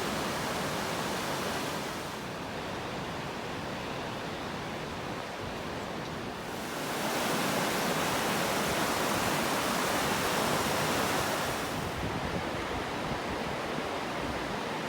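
Steady rushing hiss of rain and running water, swelling louder for about five seconds in the middle.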